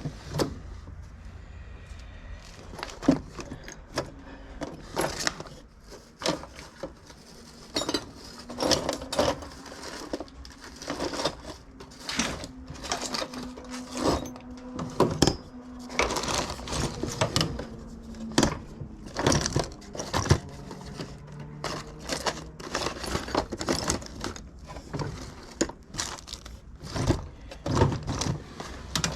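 Irregular clicks, taps and knocks of hands handling and fitting parts of a string trimmer during a repair; no engine running.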